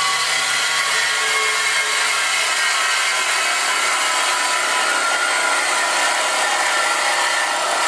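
A power tool running continuously at the exhaust pipe while the old exhaust tip is taken off: a loud, steady hiss with a faint whine.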